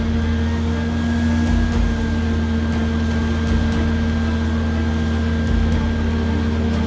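Steady drone of a large engine or machine running at constant speed, with a low hum and a faint high whine held throughout.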